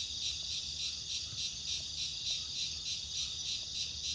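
Night-time forest insect chorus: a steady high-pitched trilling that pulses evenly about four times a second.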